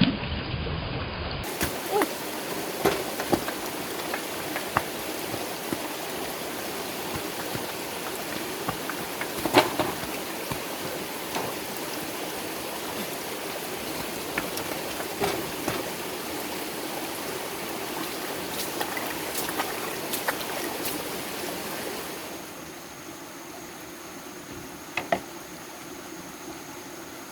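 Stream water running steadily, with scattered sharp knocks and taps over it. The water sound drops somewhat quieter about three-quarters of the way through.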